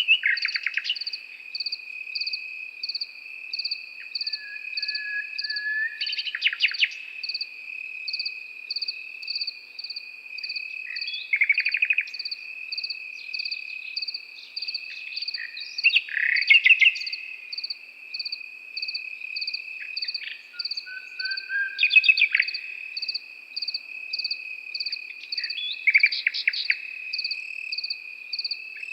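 Crickets trilling steadily, one continuous and one in even chirps about three a second, while a nightingale sings short phrases of rapid repeated notes about every five seconds, a few opening with a soft low whistled note.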